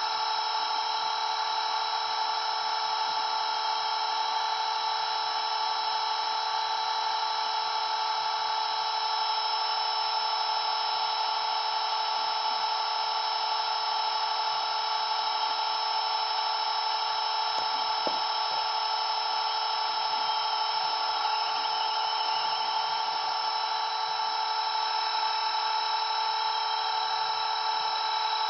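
Blade 230S V2 electric RC helicopter in flight, its motor and rotors making a steady high whine that holds one pitch throughout.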